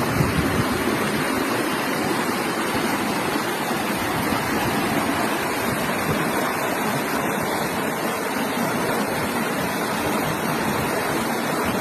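River water rushing over rocks, a steady noise that does not change.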